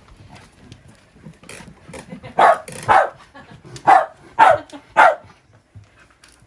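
Welsh corgi barking five times in quick succession, sharp single barks about half a second to a second apart.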